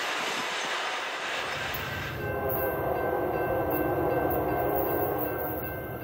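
Freight train rolling on the rails with a steady rushing noise for about two seconds, then a locomotive horn sounding one held chord for about three seconds over a low rumble.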